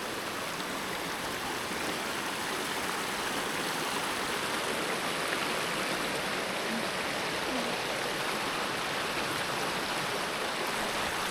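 Kanarra Creek flowing over rocks, a steady rushing of water.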